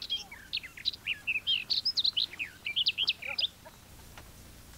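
A songbird singing a rapid, varied string of short chirps and whistles, which stops about three and a half seconds in.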